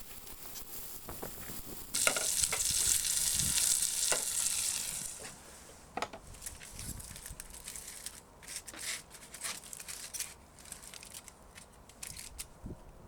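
Steak searing on a hot forged iron plate. A loud sizzle starts suddenly about two seconds in and dies down a few seconds later into quieter, scattered crackling and spitting.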